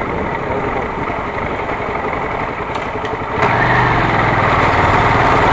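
Motorcycle engine running steadily, getting louder about three and a half seconds in.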